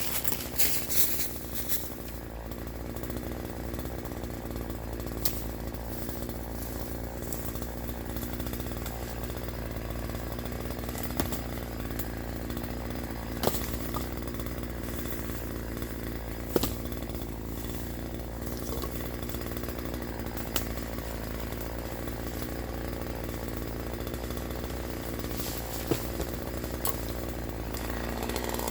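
Troy-Bilt TB4218 42cc two-stroke chainsaw running steadily, with a few sharp ticks now and then.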